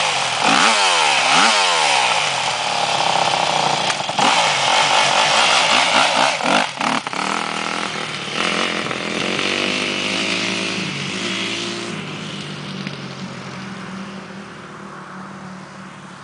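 Motocross motorcycle engine revved in several quick blips, rising and falling, then running steadily and growing fainter toward the end as the bike moves away.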